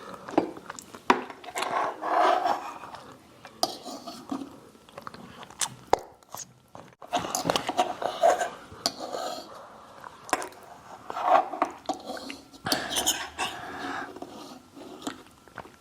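Cutlery clinking and scraping on a plate, with chewing, as a meal is eaten; sharp clicks come at irregular moments throughout.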